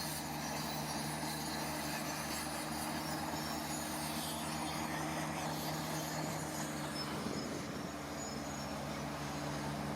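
Diesel engine of heavy construction machinery running steadily at an unchanging pitch.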